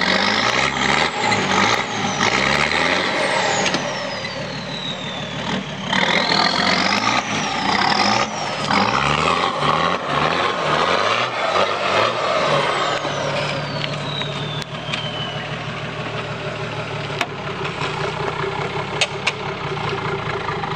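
Nissan Patrol 4WD's engine revving in repeated surges while crawling up over rocks, with a high whine that rises and falls with the revs. After about thirteen seconds it settles to a steadier, lower run, and a few sharp knocks come near the end.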